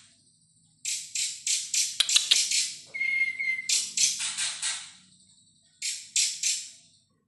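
Young cungkok songbird singing in bursts of rapid, buzzy, rattling notes, with a short steady whistle about three seconds in.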